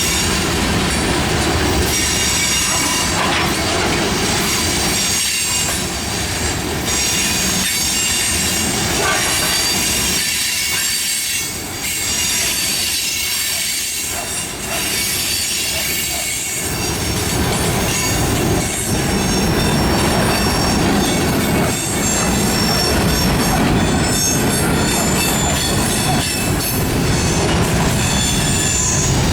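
Train cars rolling past with their wheels squealing: several high, steady, overlapping squeal tones over the low rumble of the cars. The rumble eases for a few seconds in the middle, then builds again.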